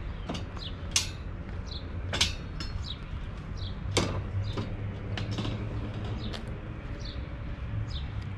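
Small birds chirping: many short, high notes that fall in pitch, over a steady low rumble. A few sharp knocks stand out about one, two and four seconds in.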